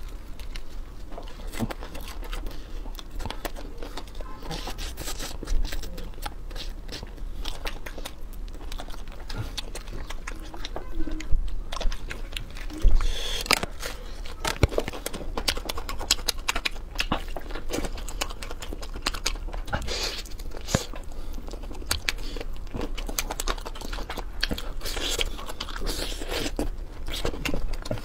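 Bites and chewing on the crisp battered crust of deep-fried chicken: a steady run of crackling crunches, with a few louder crunches about halfway through.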